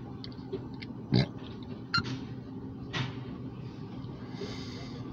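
Covered grain hopper cars rolling slowly past, their wheels knocking over the rail joints about once a second, the first knock the loudest, over a steady low hum. A brief hiss comes near the end.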